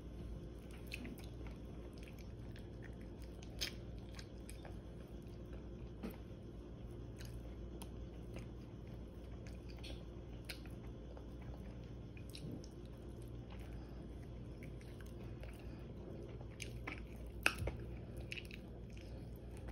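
Faint chewing and crunching of crispy air-fried chicken wings, with scattered short crisp clicks from bites, over a steady low hum.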